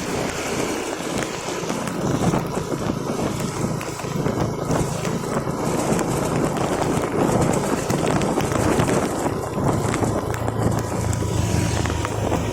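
Steady vehicle running noise with a low hum underneath and wind rushing on the microphone.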